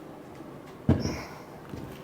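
A single sharp knock about a second in, trailing off with a brief high ringing: a metal part or tool set down on a workbench.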